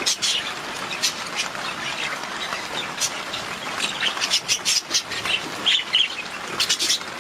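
Budgerigars chattering, with many short, sharp calls coming quickly and irregularly over a steady background of chatter.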